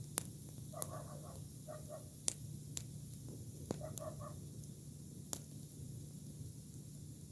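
Campfire of fresh green cudrania branches burning, with about six sharp, irregular pops from the green wood over a low steady background.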